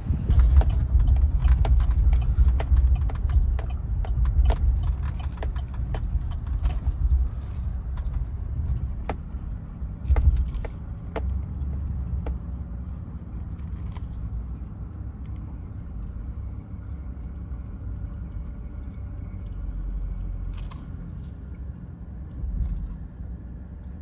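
Vehicle driving with a load of scrap rebar and metal buckets, a low rumble with many sharp rattles and clinks of metal, busiest and loudest in the first half before settling to a quieter steady rumble.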